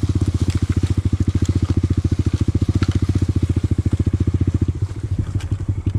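Honda Grom minibike's small single-cylinder engine running at low speed, a fast, even exhaust beat. Near the end the beat slows and turns uneven.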